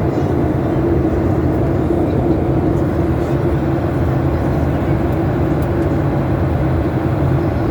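Steady drone of a Boeing airliner's cabin in flight: engine and airflow noise, low and even throughout.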